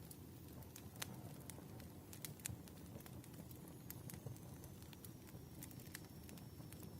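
Wood fire crackling softly: scattered sharp pops and snaps over a low, steady rumble of burning logs.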